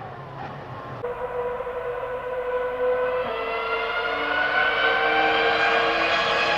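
Ferrari Formula One car engine at high revs. Its high, many-toned pitch climbs steadily and grows louder as the car accelerates toward the listener.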